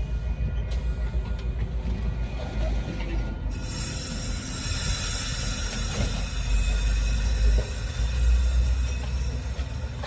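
Metra bilevel commuter train at the platform, rumbling low and steady. About three and a half seconds in, a loud high hiss with thin whistling tones starts suddenly and keeps going.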